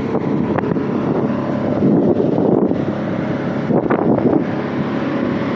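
Heavy motorised work machinery running steadily, a constant engine tone under a rough rumbling noise that swells about two seconds in and again near four seconds.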